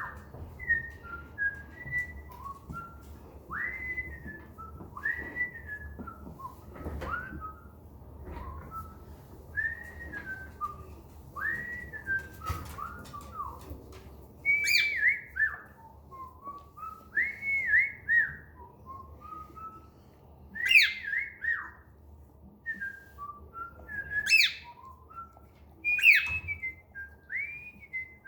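Pet bird whistling a repeated phrase of short notes, many sliding down in pitch, broken by a few sharper, louder shrill calls in the second half.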